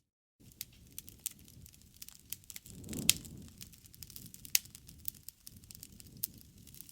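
Wood fire crackling, with scattered sharp pops over a low rumble of burning; a swell of flame and the loudest pop come about three seconds in. The sound cuts out completely for a split second at the very start.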